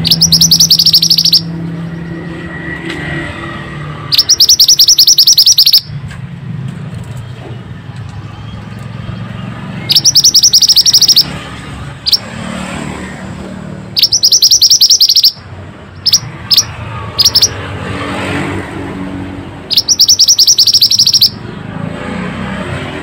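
Mantenan (pied bushchat) song: five loud bursts of rapid, high chirping, each about a second and a half long, with a few short single notes between them, over a low background rumble.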